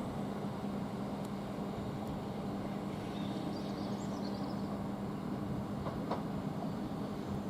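Southeastern Class 395 high-speed electric multiple unit pulling out of the station: a steady electrical hum with a constant low tone.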